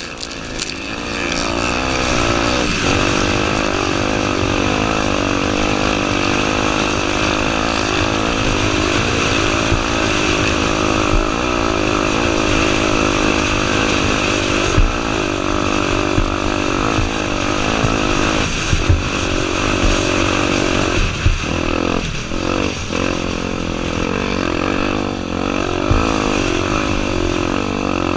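Honda Tornado 250's single-cylinder four-stroke engine running under load, its revs rising and falling continually as the bike is ridden, with a few sharp knocks along the way.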